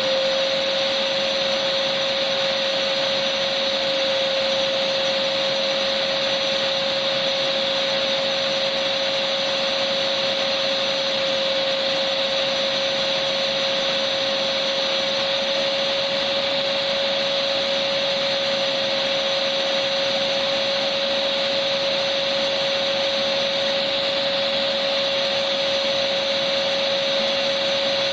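Electric vacuum cleaner running steadily, a continuous whooshing noise with a steady mid-pitched motor whine, used as white noise for sleep.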